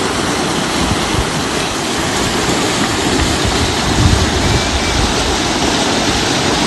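Loud, steady rush of flowing water, with a churning low rumble under it.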